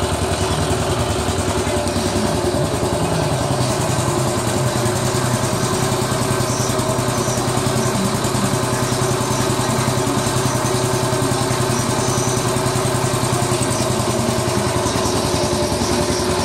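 Brand-new Baja mini bike's single-cylinder small engine idling steadily on its first run, just after starting on the first pull. Its pitch wavers a little in the first few seconds, then holds even.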